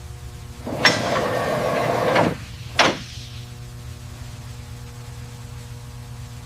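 A door is opened with a latch click, slides or swings with a scraping rush, then shuts with a sharp slam about three seconds in, over a steady low hum.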